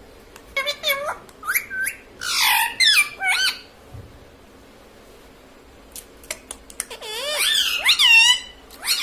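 Pet ringneck parrot giving short, sharply gliding squawks in two bursts, with a pause of about three seconds between them and one more call at the end.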